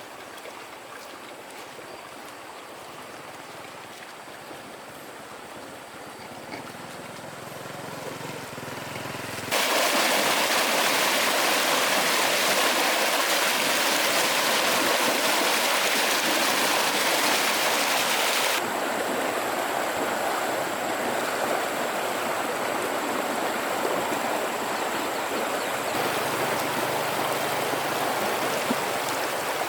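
Flowing river water, a steady rushing hiss. It jumps suddenly much louder about a third of the way in, then drops back somewhat past the middle.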